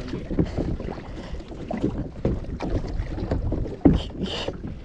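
Water sloshing and splashing around a kayak, with wind on the microphone and scattered small knocks; a sharp knock comes about four seconds in, followed by a short splash.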